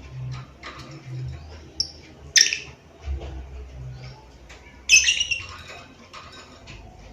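Lovebird calling: short, sharp, high-pitched chirps and squawks, a loud one about two and a half seconds in and a cluster near five seconds in, with soft chattering between. A low hum comes and goes underneath.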